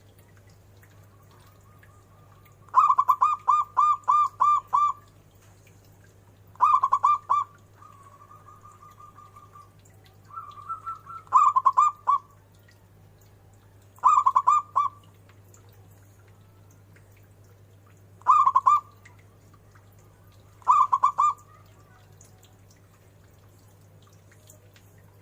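Zebra dove (perkutut) cooing in six bursts of quick, repeated staccato notes, the first one the longest. Softer trilled notes come between the second and third bursts.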